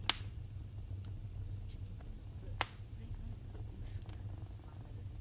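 Wood fire in a fireplace crackling over a steady low rumble, with two sharp pops, one just after the start and one about two and a half seconds in.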